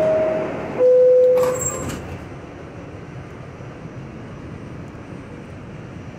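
R68 subway car door chime: two steady tones, the second lower and louder, followed by the doors sliding shut about a second and a half in, then a quieter steady hum from the stopped car.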